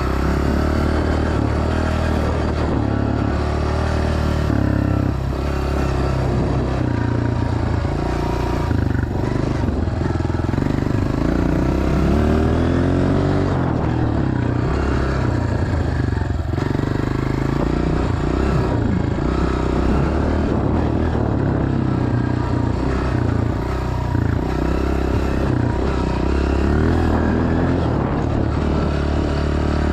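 Dirt bike engine running and being ridden, its revs rising and falling again and again, with a longer climb in revs about halfway through.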